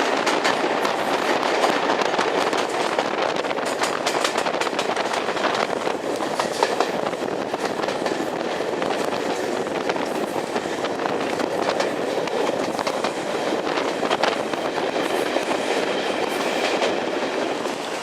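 Train running along the track: a steady rolling rumble with many sharp clicks and clatters from the wheels over the rail joints.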